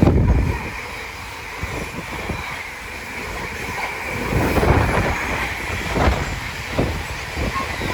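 Train running along the track: a steady rumble with irregular knocks and clatter from the wheels, swelling about halfway through.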